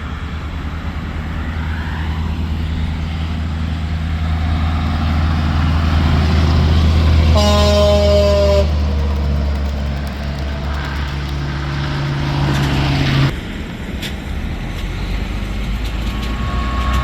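Semi truck passing on the interstate, its diesel engine and tyre noise building as it nears. Its air horn sounds one blast of about a second, a little over seven seconds in. The noise cuts off sharply about two-thirds of the way through, and another vehicle's noise builds near the end.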